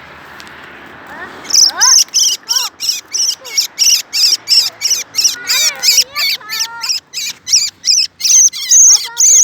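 Birds calling loudly close by: from about a second and a half in, a fast string of high, sharp chirps at about four a second, with lower rising and falling whistled notes woven through.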